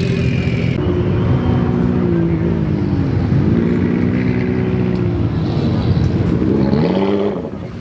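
Car engine running with its pitch falling about three seconds in and rising again near the end, then dropping off briefly.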